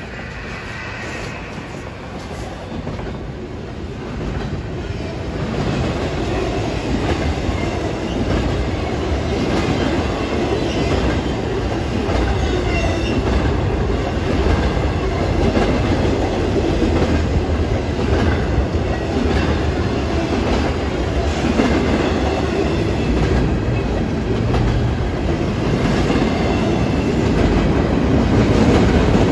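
Train passing close, its wheels clattering over the rails in a steady loud rumble that builds over the first several seconds.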